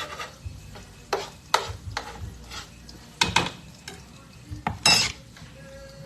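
A utensil stirring and scraping food in a hot skillet, several short strokes with the loudest about five seconds in, over a light sizzle of frying.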